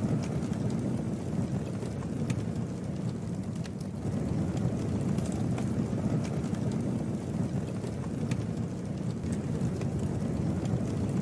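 Campfire burning: a steady low rush of flame with scattered sharp crackles and pops from the burning wood.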